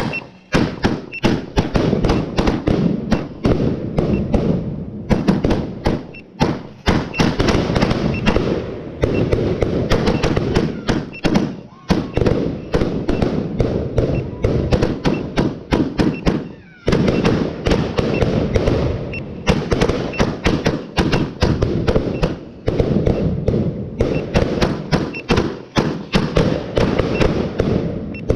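A multi-shot firework barrage firing a rapid, continuous stream of bangs and crackles, with a few brief pauses between volleys.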